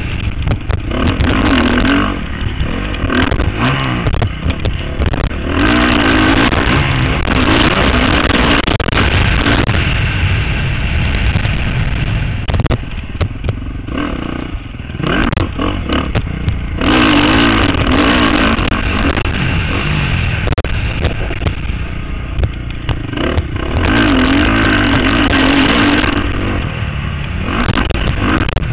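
Motocross motorcycle engine heard from the rider's helmet, the throttle opened and shut over and over so the revs climb and fall every few seconds.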